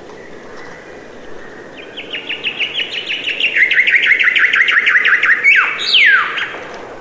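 Songbird singing: a fast trill of repeated chirps, several a second, that starts about two seconds in and grows louder, followed by a few quick downward-sweeping whistles near the end. A steady hiss runs underneath.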